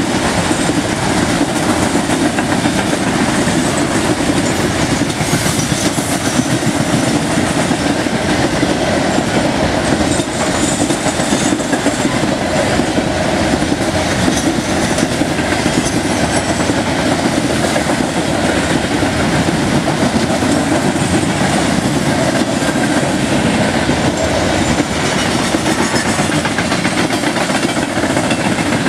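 Coal train of steel gondola cars rolling past at speed: a steady, loud clatter and rumble of wheels on the rails.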